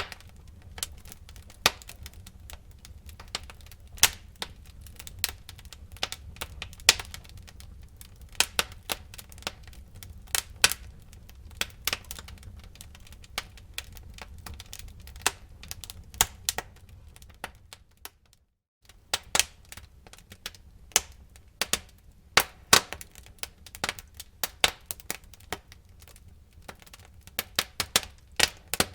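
Wood fire crackling in a fireplace: irregular sharp pops and snaps over a low steady rumble of the flames. The sound cuts out for a moment about two-thirds of the way in.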